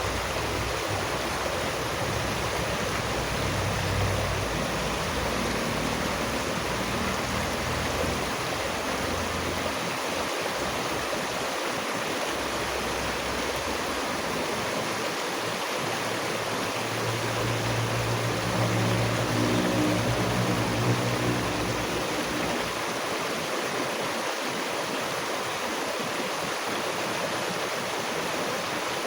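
Steady rushing of water flowing in a stream. A low hum rises under it for a few seconds about two-thirds of the way through.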